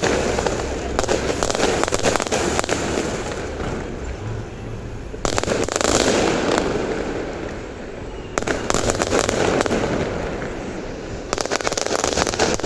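Aerial fireworks going off in dense crackling volleys over a steady rumble of bursts. New salvos break out about a second in, about five seconds in, about eight seconds in and about eleven seconds in.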